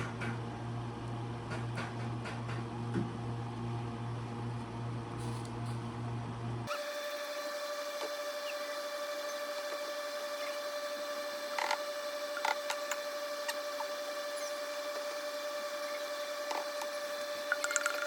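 A steady mechanical hum made of several even tones, changing abruptly about seven seconds in, with a few light clicks and clinks about halfway through and again near the end.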